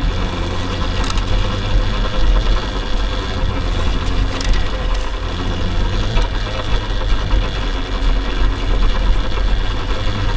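Steady low rumble of an electric dirt bike being ridden over a bumpy, potholed dirt road.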